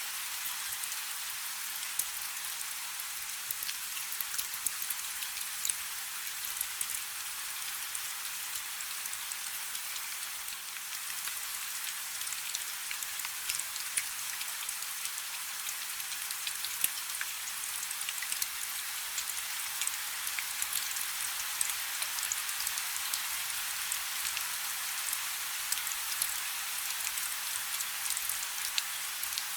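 Steady rain falling on a river: an even hiss of rainfall dotted with many small, crisp drop ticks.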